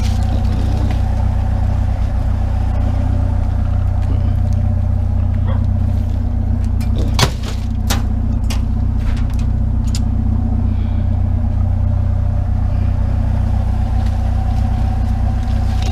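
Truck engine running steadily, a constant low drone, with a few sharp clicks about seven to eight seconds in.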